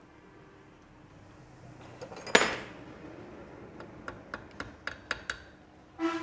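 Metal engine parts and hand tools clinking and knocking during motorcycle engine reassembly: one loud clank, a quick run of sharp ticks, then a ringing metal clink near the end.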